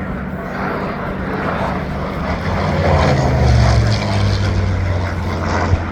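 WWII piston-engine fighters making a low pass, their propeller engines droning and swelling to their loudest about three and a half seconds in, then easing as they go by.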